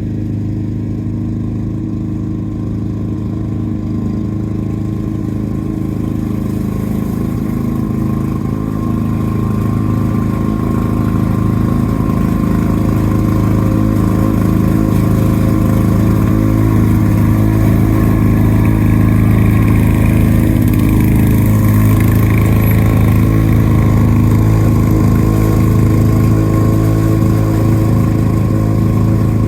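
Lawn-Boy walk-behind mower's two-stroke engine running steadily, getting somewhat louder about a third of the way through.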